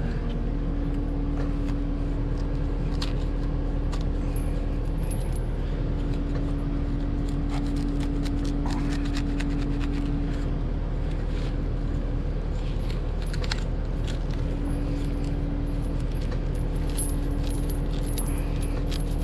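Cat 259D compact track loader's diesel engine idling steadily, with scattered clicks and scrapes of a knife cutting jammed palmetto out of the forestry mulcher head.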